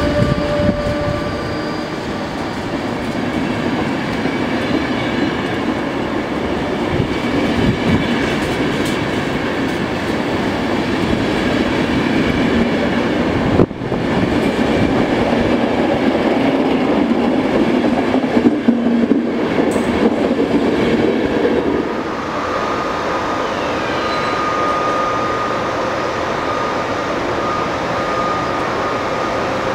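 Passenger coaches of a night train rolling past along a station platform, a steady rumble of wheels on rail. A held horn note ends about a second in. Near the end a steady thin whine sounds over a lighter rumble as an electric locomotive brings another train in.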